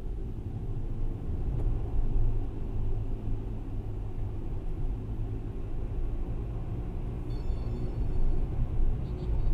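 Steady low rumble of city road traffic. A faint, brief high-pitched squeal comes about seven seconds in.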